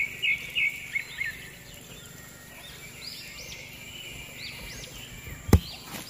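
Small birds chirping, with a quick run of repeated notes at the start and scattered higher chirps after it. A single sharp knock comes near the end.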